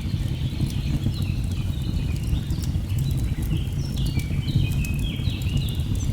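Layered nature ambience: the steady low rush of a waterfall with the sharp crackles of a burning log fire, over which a bird sings a quick run of short whistled notes that step up and down in pitch.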